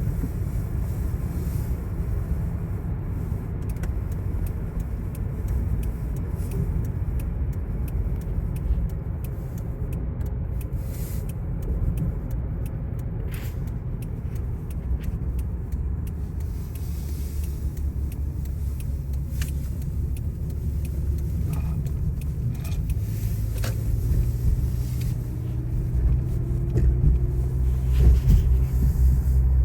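Motor vehicle running with a steady low rumble. A low engine hum grows stronger about two-thirds of the way through, and a faint rising tone follows near the end.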